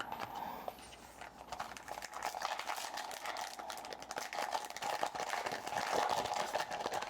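Foil wrapper of a trading card pack being handled and torn open, with continuous crinkling and crackling.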